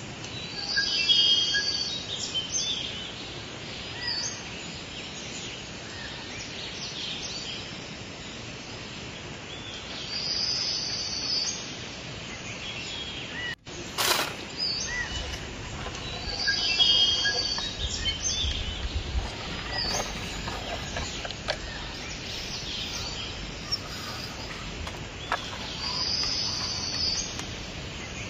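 Birds chirping and calling in short clusters over a steady outdoor background hiss, with a brief cut in the audio about halfway through.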